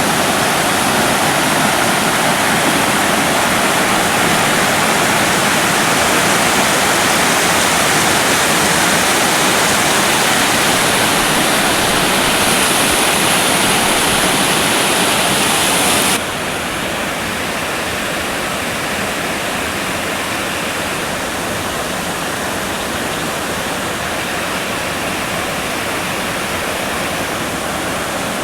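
Steady rushing of water falling down a waterfall. About halfway through it drops suddenly to a quieter, duller rush.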